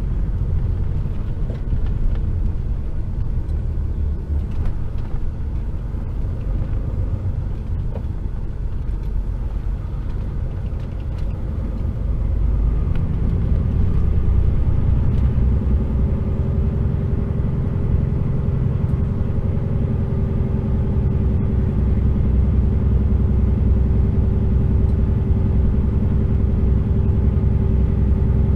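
Heavy goods vehicle's diesel engine and low road rumble, heard inside the truck's cab. About twelve seconds in it gets louder and a steady engine hum comes in.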